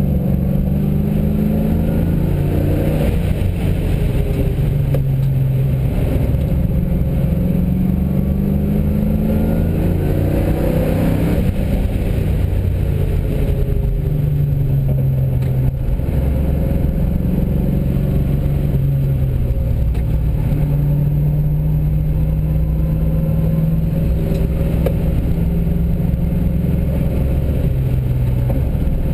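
UC Torana's 5-litre V8 from a VT Commodore, heard from inside the cabin while the car is driven hard on a racetrack. The engine note climbs and drops repeatedly through gear changes and corners, then holds a steady pitch for several seconds near the end.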